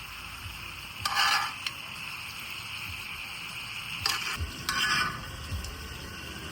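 Food frying and sizzling in a pan with a steady hiss. Three louder bursts come about a second in and again around four and five seconds in.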